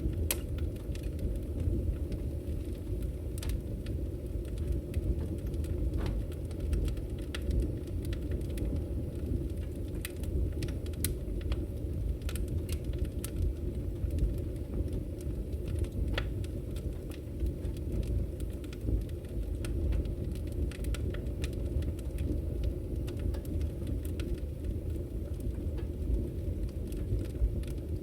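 Wood fire burning in a fireplace: a steady low rumble of flames with many small, irregular crackles and pops scattered throughout.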